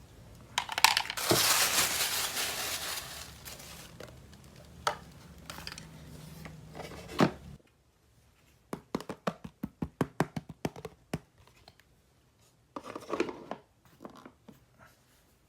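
Toy packaging being torn open and crinkled in a loud burst about half a second in, followed by a few sharp clicks. Later comes a quick run of small clicks and taps, then a brief second crinkle.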